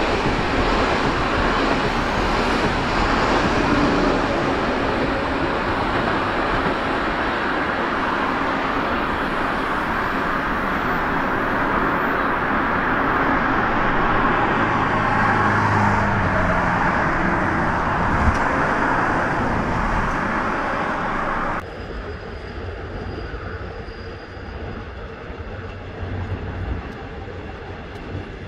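KTX-Sancheon electric train running on the track below, a steady loud rush and rumble of wheels on rail. About 22 seconds in it drops suddenly to a much quieter low rumble.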